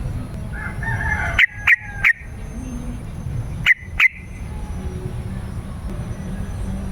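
Yellow-vented bulbul (trucukan) singing: a short bubbly warble about a second in, then three loud, sharp, short notes, and two more a couple of seconds later.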